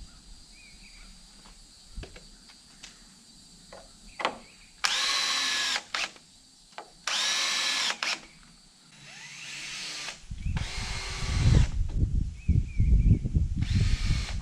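Power drill driving screws into wood: two short runs of about a second each, then longer, heavier runs with a loud low rattle near the end.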